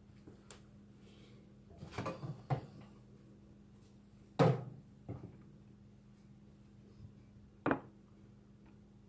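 Kitchen things being handled and set down: a few separate knocks and clatters. There is a small cluster about two seconds in, the loudest knock comes about four and a half seconds in, and a sharp one follows near the end.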